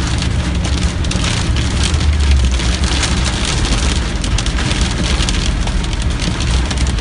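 Heavy rain drumming on a car's roof and windshield, heard from inside the cabin as a dense patter of drops over the low rumble of the moving car.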